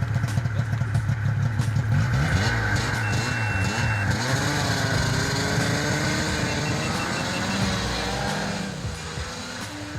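Snowmobile engine running under way, its pitch rising and falling with the throttle, easing off near the end.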